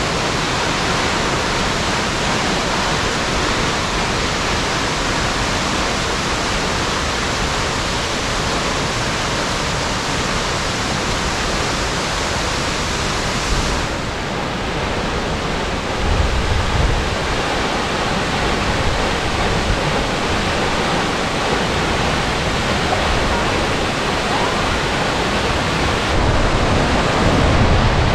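Waterfall rushing steadily, a dense even hiss of falling water. The sound shifts abruptly about halfway through, and short stretches of low rumble come in after that and again near the end.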